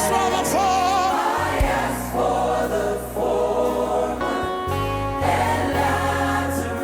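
Gospel worship music: choir voices singing without clear words over sustained instrumental chords and a held bass line that shifts note a few times.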